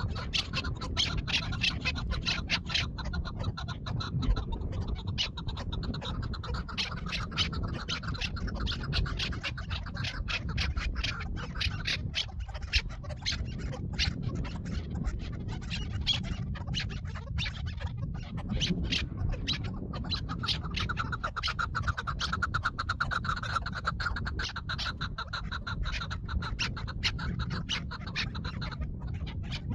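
Chukar partridge giving rapid pulsing call series, in two long bouts, over constant scratching and rustling clicks.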